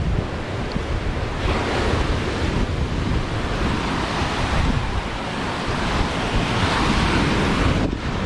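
Wind buffeting the microphone with a low rumble, over a steady rushing noise that swells about a second and a half in and again near the end.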